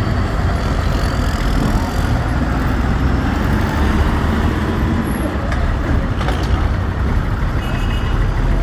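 Tractor engines running steadily on the road, a dense low rumble with road noise.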